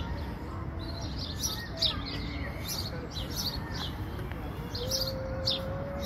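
Small songbirds chirping and singing in short, high, repeated phrases.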